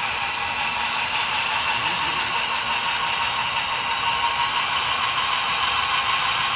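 Freight train led by Great Northern RS-3 diesel locomotives running steadily, a continuous rushing noise with light clatter.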